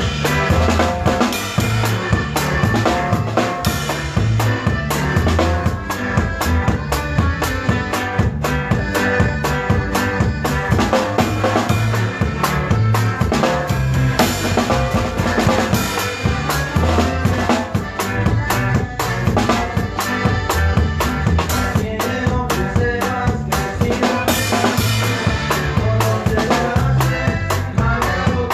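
Norteño conjunto playing an instrumental passage of a norteña: a drum kit with snare and bass drum keeps a steady beat under accordion lines.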